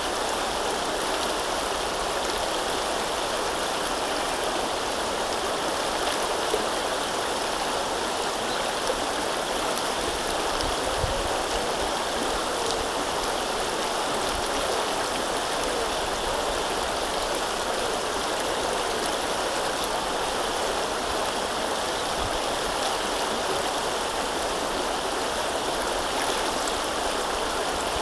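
River water flowing steadily, an even rushing with small gurgles.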